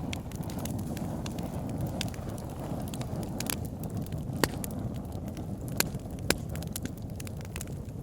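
Fire burning in a fireplace: a steady low rush of flames with sharp crackles and pops scattered throughout, several louder snaps in the middle.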